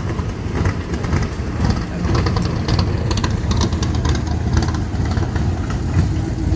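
A car's engine running with a low exhaust note as a car drives slowly past, the sound holding steady rather than passing quickly.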